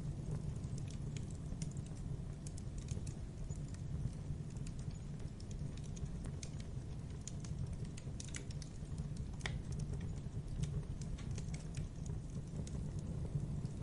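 Campfire burning: a steady low rumble of flame with irregular sharp crackles and pops from the burning wood.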